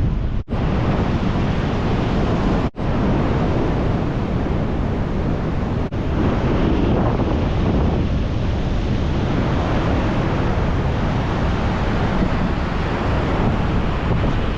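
Ocean surf rushing on a beach, with wind buffeting the microphone. The sound cuts out briefly three times in the first six seconds.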